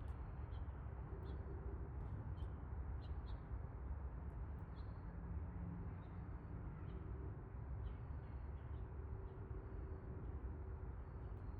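Steady low background rumble with faint, short high chirps scattered through.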